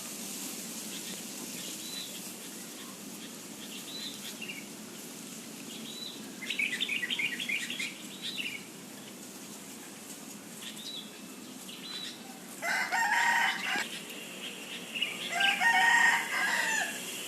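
Birds calling: a short high chirp repeated about once a second, a quick chattering burst, then two louder, fuller calls near the end.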